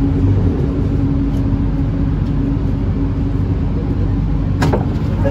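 Steady hum and hiss of a Bombardier Innovia ART 200 light-rail train standing at a station platform, with a steady low tone from its onboard equipment. A single sharp click sounds about four and a half seconds in.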